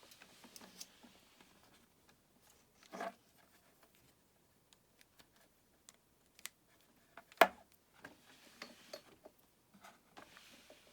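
Scattered small clicks and rustling handling noises with no music, one sharp click about seven and a half seconds in.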